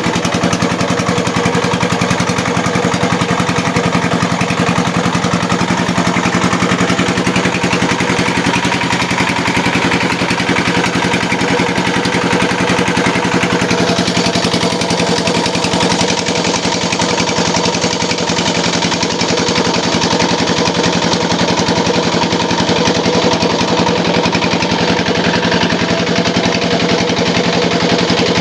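Small engine running steadily at an even speed, powering a homemade gambier-leaf grinding and pressing machine.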